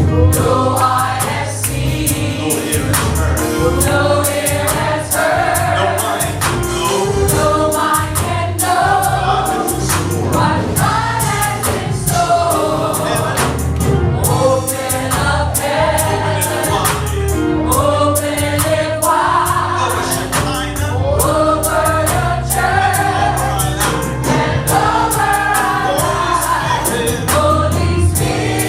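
Gospel worship music: a choir singing with a live band, with a steady bass line and a regular drum beat.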